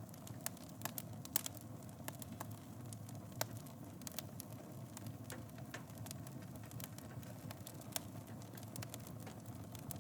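Fire burning in a fireplace: steady low rushing with constant crackling, a few louder pops about one and a half and three and a half seconds in.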